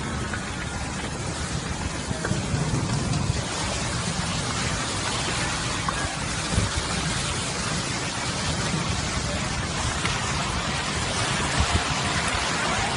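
Steady rain falling, an even hiss that grows slightly louder, with a low hum underneath and a couple of brief thumps.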